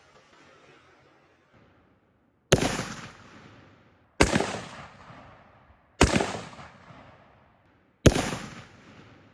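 Four gunshots fired about two seconds apart, each a sharp crack followed by a trailing echo that dies away.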